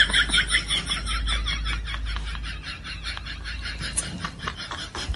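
Java sparrow calling: a quick run of short, high chirps and clicks, several a second, louder at first and softer after about two seconds.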